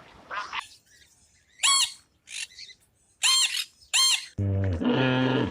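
An animal squeaking: three short, high-pitched calls that rise and fall, then a lower, longer drawn-out animal call about four seconds in.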